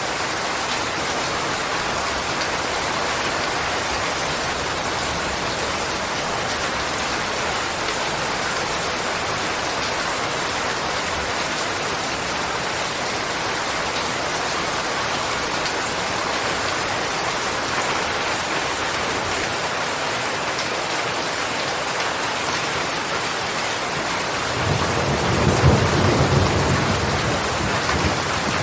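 Steady rain falling, an even hiss. Near the end a low rumble of thunder rolls in and becomes the loudest sound.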